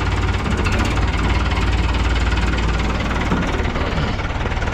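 Fiat 640 tractor's four-cylinder diesel engine running steadily with an even, rapid firing beat.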